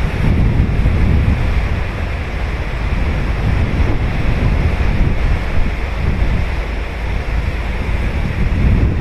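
Ocean surf breaking and washing up a sandy beach, a steady rush of water with wind rumbling on the microphone.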